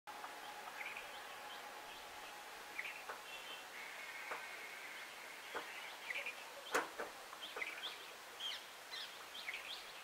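Small birds chirping in short, scattered calls over steady outdoor background noise, with the calls coming thicker in the second half. A single sharp click about seven seconds in.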